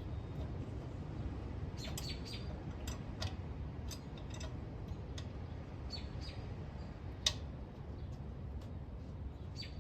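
Small birds chirping in short, scattered calls over a steady low rumble, with one sharp click about seven seconds in.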